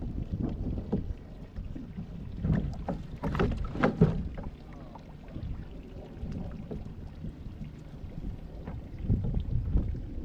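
Wind rumbling on the microphone aboard a small boat on the water, with a few knocks and water sounds about three to four seconds in.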